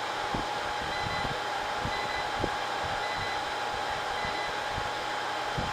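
Steady fan and rushing-air noise from running air handlers and server-room equipment, with a faint constant whine.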